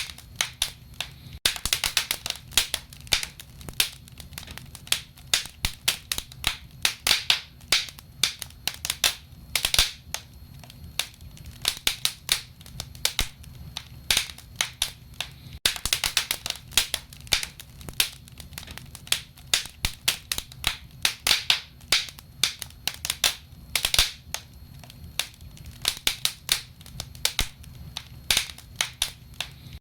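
Wood fire crackling in a fireplace: irregular sharp pops and snaps, often several a second and sometimes in quick clusters, over a low steady rumble.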